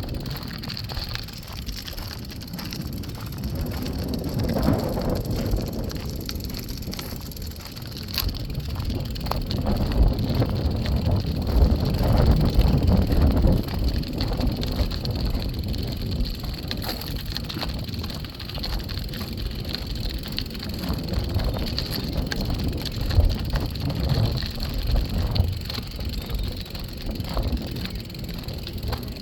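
Wind rumbling and buffeting on a handheld phone's microphone while walking, rising and falling, with small clicks and knocks from handling.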